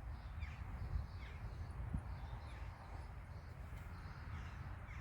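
Crows cawing faintly a few times over a steady low background rumble, with a light click about two seconds in.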